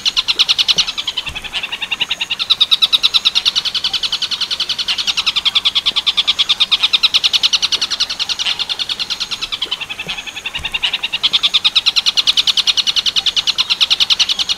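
Tengkek buto bird song in the Werkudoro style: a long, rapid trill of clear, high repeated notes that swells and eases, with brief lulls about two, eight and ten seconds in.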